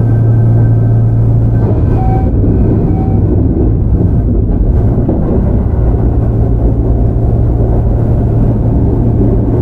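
Onboard running noise of a Kintetsu 5800 series electric commuter train under way between stations, heard from inside the car: a steady loud rumble of wheels on rails with a low hum.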